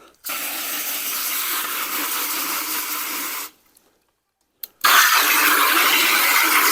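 Water running into a small plastic bucket as it is rinsed out. It comes in two spells: about three seconds, a short stop, then a louder spell from about five seconds in.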